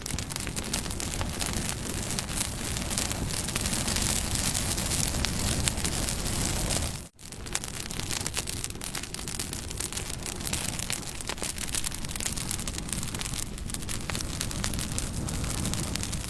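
Campfire burning, with a steady hiss and many small crackles and pops from the burning wood. There is a brief gap in the sound about seven seconds in.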